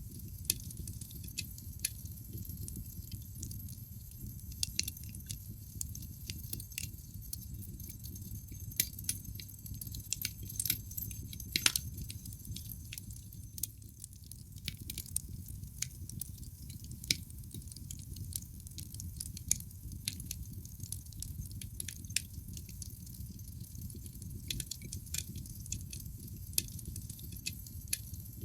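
Wood fire burning in a fireplace: a steady low rumble of the flames with irregular sharp crackles and pops from the burning logs, a few louder pops standing out.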